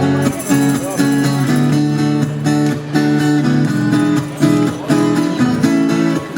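Live rock and roll band playing an instrumental passage: strummed guitars over a repeating bass line.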